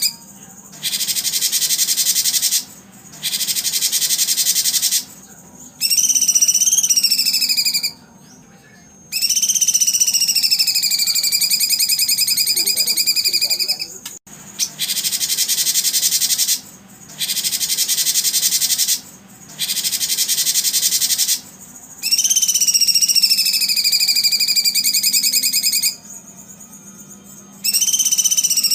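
Recorded bird song of the kind played to train competition songbirds. Rapid buzzy trills of about two seconds alternate with longer, high whistled phrases that dip and level off, with short pauses between them.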